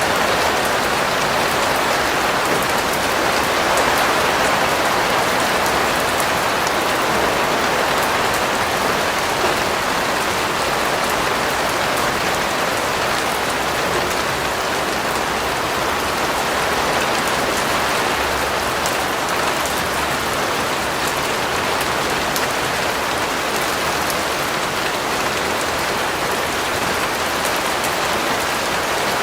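Steady rain falling on a surface, with the patter of individual drops.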